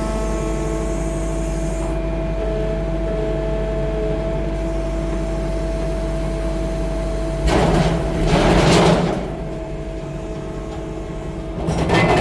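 A 6-ton tracked skid steer's diesel engine running steadily. About seven and a half seconds in, a louder, noisier burst lasts a second or two, and the machine grows louder again near the end.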